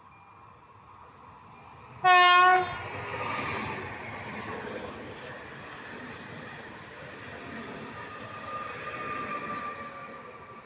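Loud, single-tone horn blast from a Koleje Śląskie 22WU-ED train, about half a second long and about two seconds in: the Rp1 'attention' warning signal. The train then runs through the station with a steady rumble of wheels on the rails.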